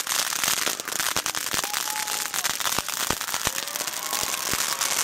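Fireworks going off: a dense, continuous crackle of rapid pops, with a few sharper cracks standing out in the middle.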